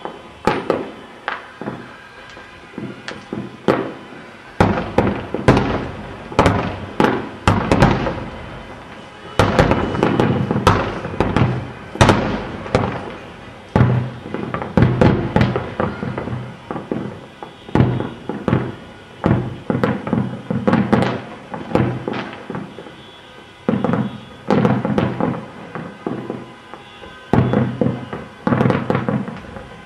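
Aerial fireworks bursting in a rapid, uneven barrage of bangs, thickest in the middle, with a steady rumble between them.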